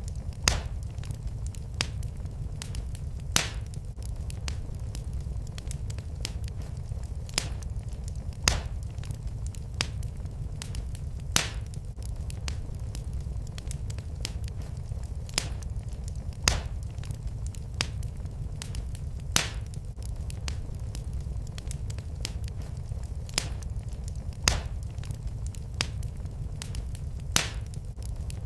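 Wood fire burning in a fireplace: a steady low rumble with sharp, irregular crackles and pops every second or two.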